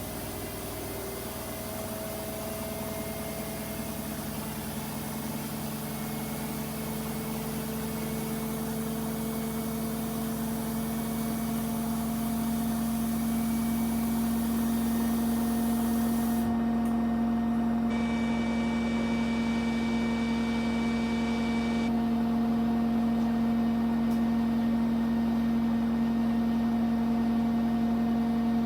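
Front-loading washing machines in the spin cycle, the drum motor's whine rising slowly in pitch and getting louder as the drum speeds up toward a 1400 rpm spin.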